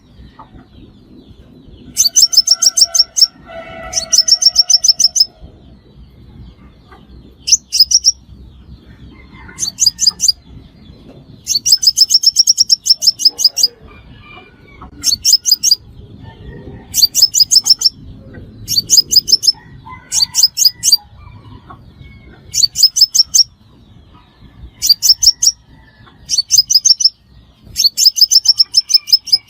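Crimson sunbird calling: short bursts of rapid, high, sharp notes, repeated about every one to two seconds.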